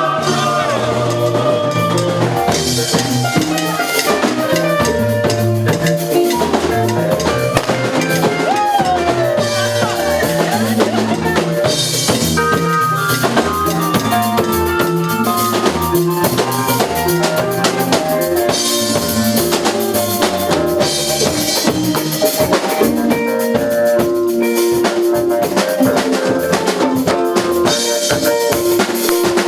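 Live church band music with no singing: a drum kit with snare and bass drum keeps a steady beat under a moving bass line and held chords.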